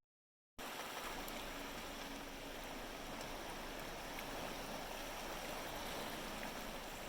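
Steady rushing noise of sea surf on a beach, starting about half a second in after a moment of silence.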